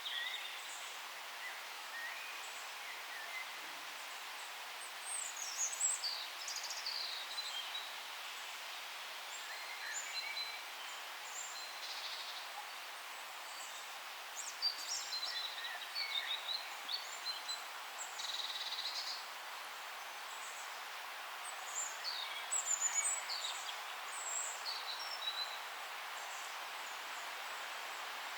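Forest ambience: a steady background hiss with several songbirds chirping and singing in short high phrases, on and off.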